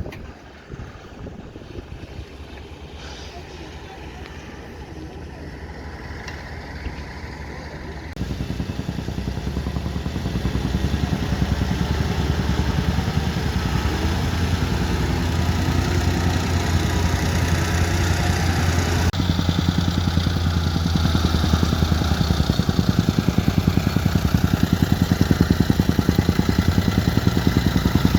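Diesel engine of a heavy earthmoving machine running under load with a steady firing pulse. It jumps louder about eight seconds in and keeps building towards the end.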